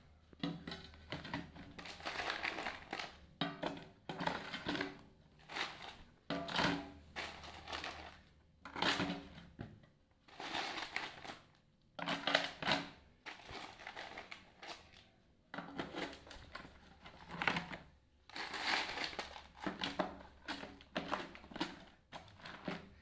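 Ice cubes being handled and put into a bucket: irregular crunching and rattling bursts, one every second or two.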